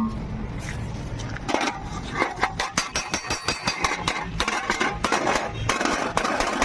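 Rapid, irregular hammer blows on sheet-metal body panels, several a second: panel-beating a vehicle's damaged side pillar.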